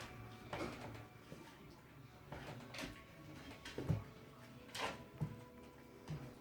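Puppies moving about in a small room: a series of short knocks and scuffs, with faint high whimpering.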